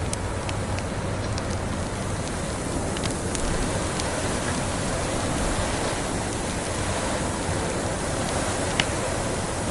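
Fireplace crackling with scattered sharp pops, one louder about nine seconds in, over a steady rushing blizzard noise.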